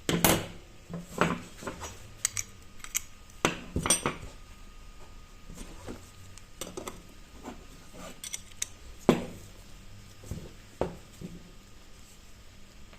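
Metal bicycle parts and tools clinking and knocking as they are handled: a dozen or so irregular sharp clinks, the loudest right at the start and about nine seconds in.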